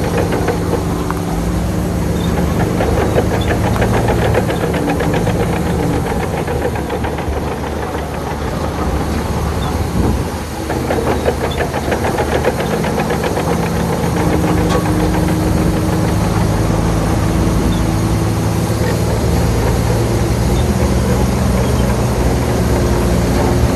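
Diesel engine of a Shantui bulldozer running steadily, with a fast rattle over it. The engine note dips briefly about ten seconds in.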